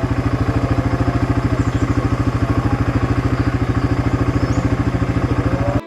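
Small vehicle engine running steadily at an even speed, close to the microphone, with a fast regular pulse.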